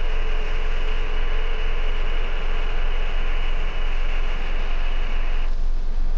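Steady loud hiss over a deep low hum; about five and a half seconds in, the upper part of the hiss cuts off abruptly, leaving the hum and a thinner hiss.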